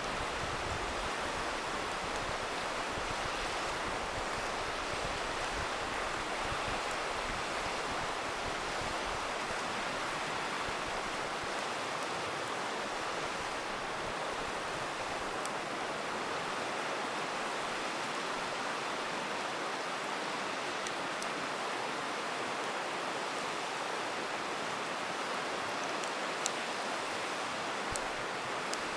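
A river rushing steadily, overlaid with the sparse sharp crackles and pops of a wood campfire, two of them louder near the end.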